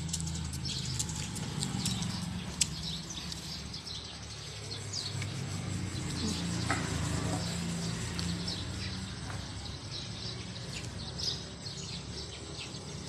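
Small birds chirping, many short, high chirps scattered throughout, over a steady low hum.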